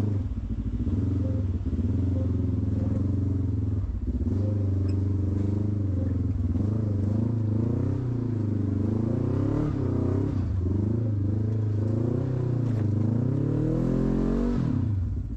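Off-road vehicle's engine revving up and down in repeated pulls under load as it is driven up onto a trail obstacle. The revs climb highest about a second before the end, then drop back.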